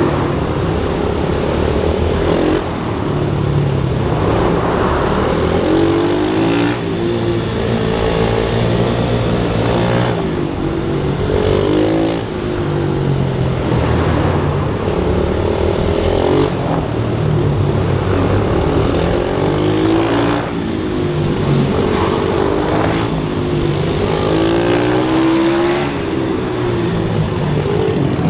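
Pit bike's small single-cylinder engine, loud and continuous, revving up and down repeatedly, its pitch rising and falling every couple of seconds as it accelerates and backs off around a track.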